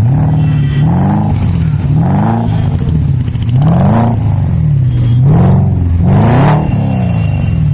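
BMW engine revved through an aftermarket free-flow exhaust in about five quick throttle blips, each rising and falling back to idle.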